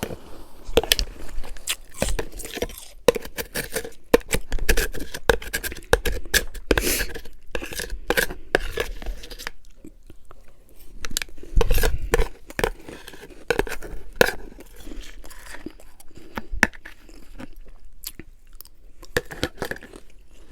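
Close-up chewing and crunching of refrozen freezer frost and ice, in irregular bursts of crisp crackles, busiest in the first half and again a little past the middle.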